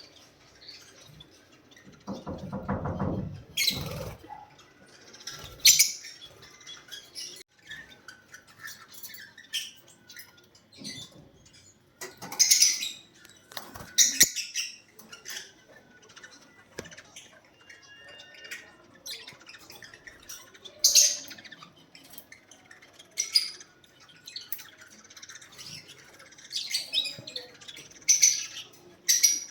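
Lovebirds giving short, shrill chirps and squawks at irregular intervals. A low rumbling noise runs for about two seconds near the start.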